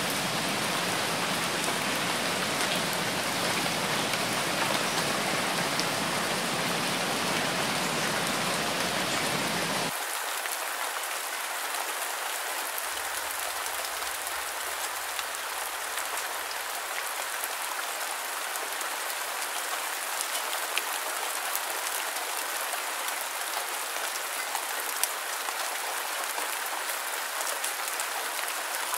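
Steady rain falling, an even hiss. About ten seconds in the sound changes abruptly, losing its low rumble and going on thinner, with scattered drop ticks.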